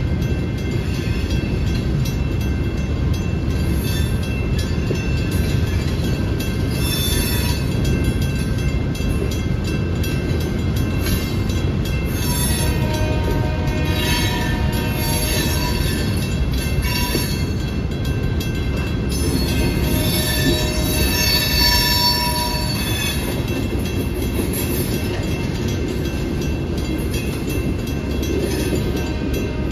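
Freight train boxcars rolling through a grade crossing: a steady low rumble of steel wheels on rail, with high wheel squeal coming and going in spells, loudest about twenty seconds in.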